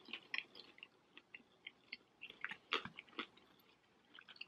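A person chewing a mouthful of food close to the microphone: faint, scattered wet mouth clicks and smacks, a few a second, with one louder click about two-thirds of the way through.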